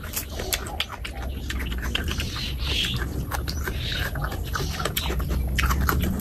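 Wet chewing and lip-smacking on curried chicken skin, a fast run of small sticky clicks and squelches.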